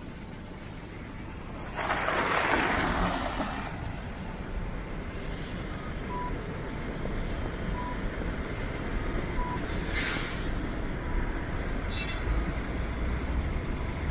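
Downtown street traffic with a steady low rumble of vehicle engines. A loud hiss of air comes about two seconds in, with a shorter one later, and a few short high beeps sound at an even pace in the middle.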